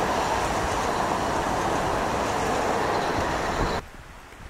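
Southern multiple-unit passenger train running through the station on the tracks, a steady loud rail noise that cuts off abruptly near the end.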